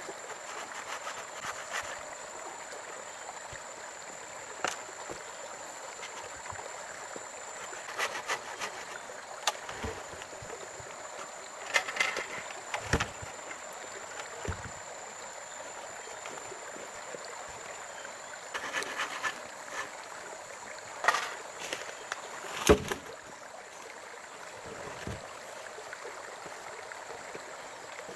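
Steady rush of running water with a constant high-pitched whine that stops about two-thirds of the way through. Scattered single knocks and clatters come every few seconds, the loudest one near the end.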